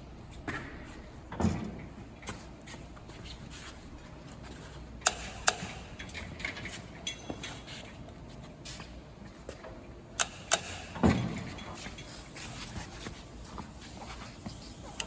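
RockShox Pike Ultimate suspension fork creaking and crackling at the steerer tube and crown as it is worked by hand: scattered sharp clicks, with loud paired cracks about five and ten seconds in, and a couple of dull thumps. The noise comes from the crown–steerer area, a sign of a loose or creaking fit there.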